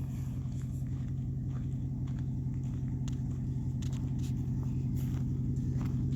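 2008 Ford F-150's 5.4-litre three-valve V8 running steadily under load while it drags a felled tree, a low even hum slowly getting louder, with a few faint scattered clicks.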